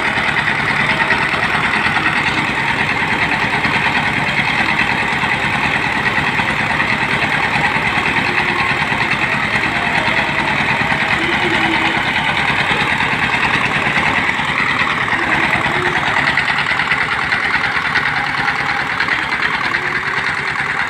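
Engine of a water-well drilling machine running steadily at a constant speed, with a rapid, even firing beat.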